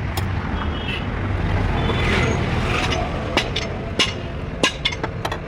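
A vehicle engine running steadily, with a swell of noise about two seconds in and a few sharp clicks or knocks in the second half.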